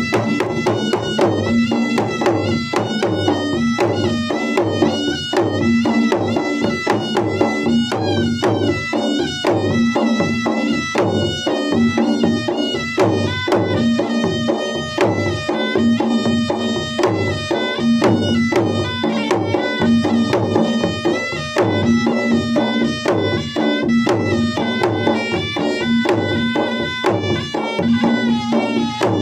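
Traditional Makassar-Bugis gendang wedding ensemble playing: double-headed drums beaten in a fast, dense rhythm with a reedy melody line over them.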